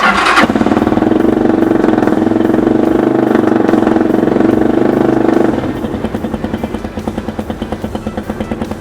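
Stels Delta 200 motorcycle engine started from cold with the choke fully out. It catches at once with a sudden burst and runs steadily at a fast choke idle, then about five and a half seconds in drops to a quieter, slower idle with an even pulsing beat.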